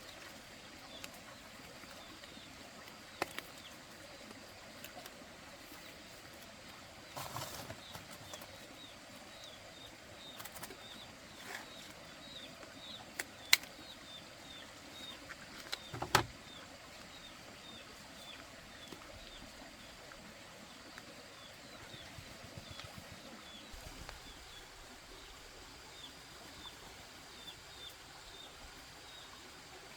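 A bird chirping over and over in short high notes, about two a second, with a brief flutter of wings and a few sharp knocks in between.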